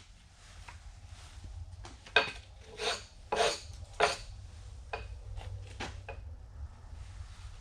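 A run of sharp knocks and scrapes from freshly sawn wooden slabs being handled and set down. There are four loud knocks about two to four seconds in, then a few lighter ones.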